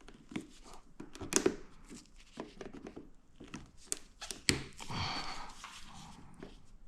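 Hands working at a plastic retaining clip on a motorcycle fuel tank: scattered clicks and knocks, the loudest about a second and a half and four and a half seconds in, with some rustling.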